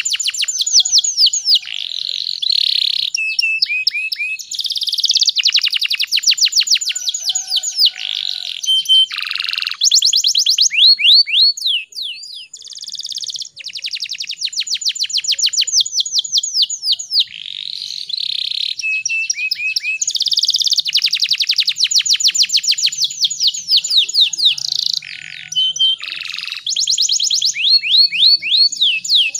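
Domestic canary singing a long song of fast trills, phrase after phrase of rapidly repeated high notes, with a short lull about twelve seconds in.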